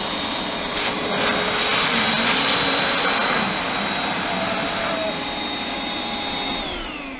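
Hoover Elite Max WindTunnel upright vacuum running with a steady high whine, freshly repaired after its power cord connection came loose. A click about a second in, then a louder rush of air for a few seconds. Near the end it is switched off and the whine falls in pitch as the motor winds down.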